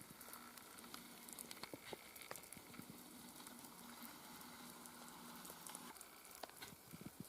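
Near silence: a faint crackling hiss with scattered tiny clicks.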